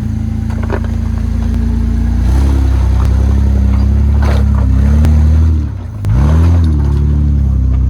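Muffler-deleted 4x4 truck engine working on a rough trail, its revs rising and falling under throttle. The revs drop briefly about six seconds in, then climb again.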